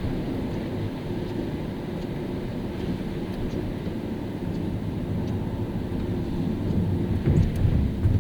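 Car driving on a wet road: a steady low rumble of road and engine noise, swelling louder with a few low thumps near the end.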